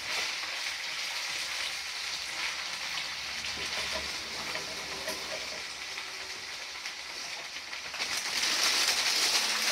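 Spinach and onions sizzling in olive oil in a frying pan as they cook down, a steady frying hiss that grows louder about eight seconds in.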